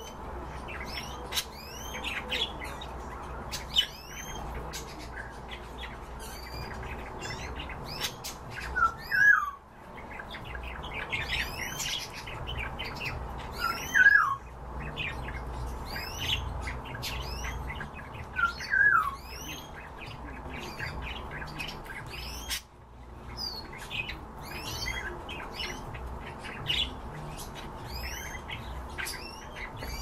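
Caged birds chirping and squawking: a busy stream of short high chirps, whistles and clicks, with a louder falling squawk about every five seconds.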